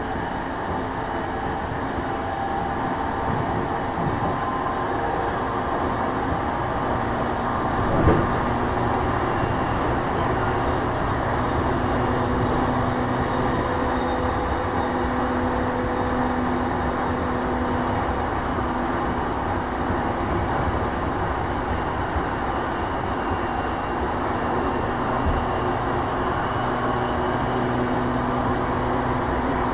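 Running sound heard inside the cabin of a JR East E233-5000 series electric train moving at a steady pace between stations: an even rumble of wheels on rail with a few steady low tones. There is a single sharp knock about eight seconds in.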